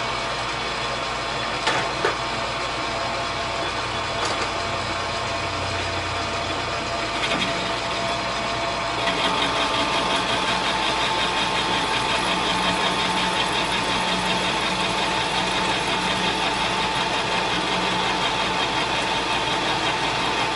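Metal lathe running with a couple of sharp clicks about two seconds in; about nine seconds in it grows louder and steadier with a high ringing hiss as the tool takes a light cut of ten to fifteen thousandths across the steel workpiece to clean up a low spot.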